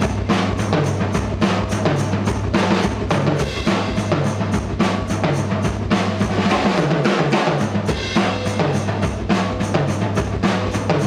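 Live rock band playing at full volume, with the drum kit's bass drum and snare keeping a steady, driving beat over bass and guitar. No vocals.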